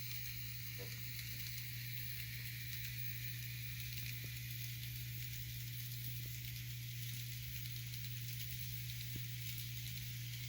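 Faint N scale model train running on track: a steady low hum and hiss with a few light clicks of wheels over the rails, from a locomotive without a sound decoder.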